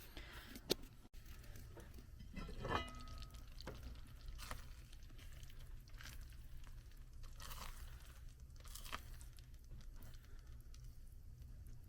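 Quiet eating at the table: faint scattered clicks and rustles of cutlery and dishes, with one light ringing clink about three seconds in.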